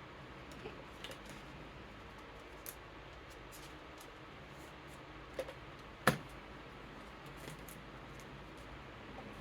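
Playing cards being handled and slid into plastic card sleeves: scattered small clicks and rustles, with one sharper click about two-thirds of the way through. An electric fan hums steadily underneath.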